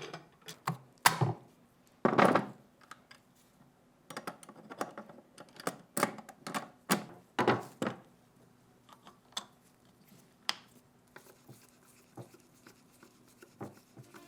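Irregular sharp clicks and knocks from the parts of a restored ShKAS machine gun being handled and fitted together, with a longer clatter about two seconds in.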